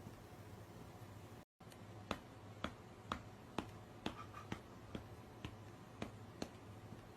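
Faint, regular sharp clicks, about two a second, over a steady low hum, with a brief break about one and a half seconds in.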